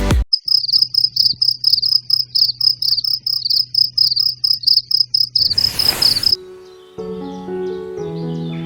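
Insect chirping, a high chirp repeated about five times a second over a faint low hum. About five and a half seconds in it cuts off with a short whoosh, and music starts shortly after.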